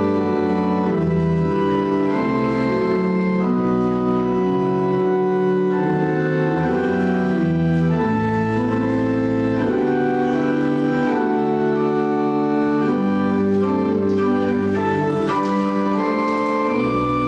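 Organ playing offertory music: slow, sustained chords, the held notes changing every second or so.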